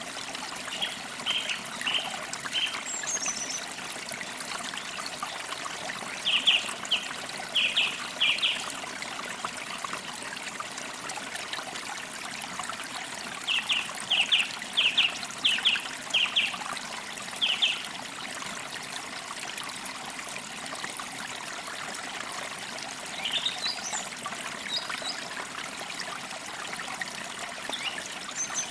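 A stream trickling steadily, with a bird calling in three runs of short, evenly repeated high notes and a few higher chirps in between.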